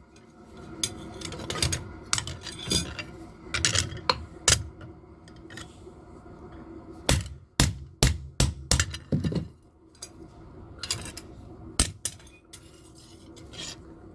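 Hammer striking metal on an anvil in irregular blows and lighter taps, each with a short metallic ring.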